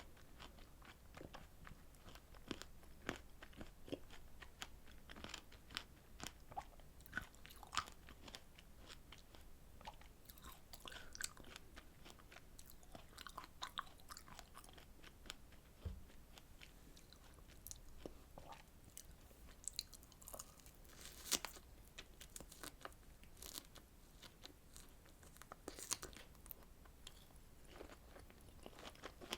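A person eating strawberry desserts close to the microphone: irregular chewing and biting with soft crunches and small mouth clicks, a couple of louder ones late on.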